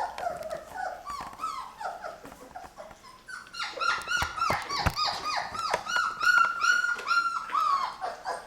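A litter of three-week-old Labrador puppies whining and yelping, many short cries that drop in pitch and overlap one another. They grow louder and come thicker about halfway through.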